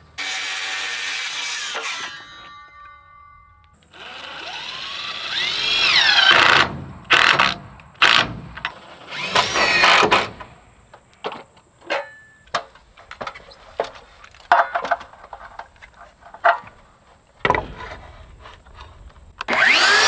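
Power drill running in several bursts, its pitch rising as it spins up under load, with short sharp knocks and clicks between the bursts.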